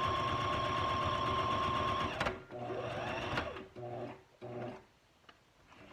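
Sewing machine running a zigzag stitch through a paper page at speed, stopping abruptly about two seconds in. A few brief, quieter sounds and light clicks follow.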